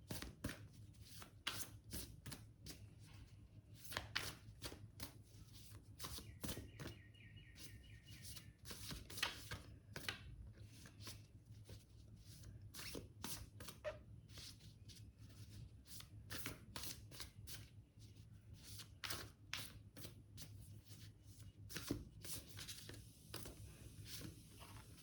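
Tarot cards being shuffled and handled: a long run of irregular soft card slaps and flicks over a faint steady low hum.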